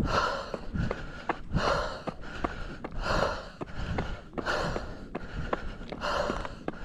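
Hard, heavy breathing of a runner climbing a steep trail, a loud breath about every second and a half, with footsteps ticking on the trail between breaths.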